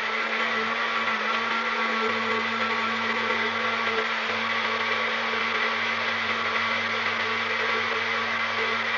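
Magic Bullet personal blender running steadily at a constant pitch, blending kale, cucumber, green apple and orange juice into a smoothie.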